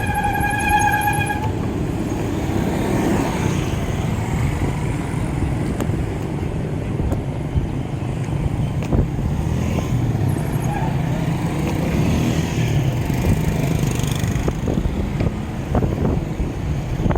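Wind rushing over the microphone and road traffic noise heard while cycling along a road. A steady high-pitched tone sounds at first and stops about a second and a half in.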